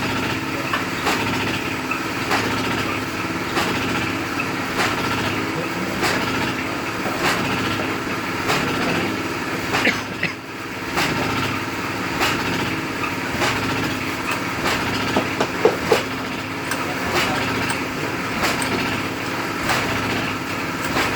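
A motor-driven jernang fruit crushing machine running steadily on test, with a light knock repeating a little more than once a second and a few sharper clacks about two-thirds of the way through.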